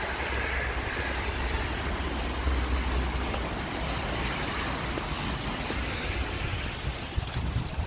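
Wind from a snowstorm buffeting the microphone: a steady low rumble under a hiss of blowing wind, with a few light ticks near the end.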